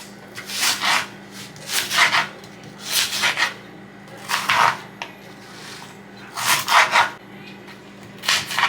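Kitchen knife slicing an onion on a cutting board: about ten separate short scraping cuts, irregularly spaced.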